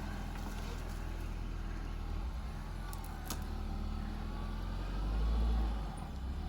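Renault Duster SUV's engine running at low speed, a steady low hum that swells louder about five seconds in, with a couple of brief clicks about halfway through.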